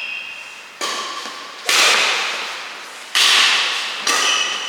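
Badminton racket hitting a shuttlecock in a rally: four sharp strikes roughly a second apart, each ringing out in an echoing hall.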